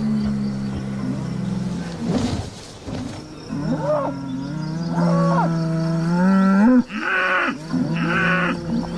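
Bulls bellowing: long, deep, drawn-out calls from more than one animal, overlapping, some rising in pitch at the end, then three shorter, higher, strained calls near the end. This is challenge bellowing between rival bulls working up to a fight over rank in the herd.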